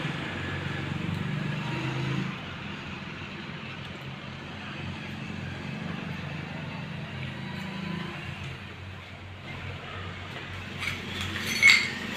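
Metal parts clinking a few times near the end, the loudest a sharp clink just before the end, over a steady low background hum.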